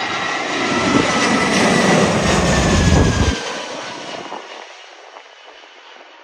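Jet airliner passing close on landing, its engines a loud rushing noise with a high whine slowly falling in pitch. The deep rumble cuts off sharply about three seconds in and the engine noise then fades away.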